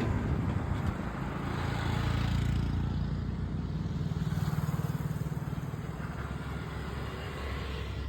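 An engine running steadily, slightly louder in the middle, over a rushing noise.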